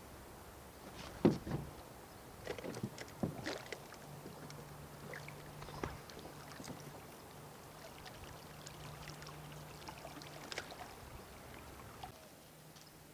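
Knocks and clatter of fishing gear against the hull of a small boat: one sharp knock about a second in, a quick cluster of knocks around three seconds, and scattered taps later, over a faint steady low hum.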